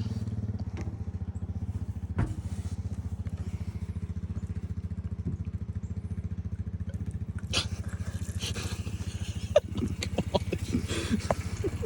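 Small engine of a home-built riding lawnmower idling steadily. Clicks, knocks and clatter of handling come in over it in the second half.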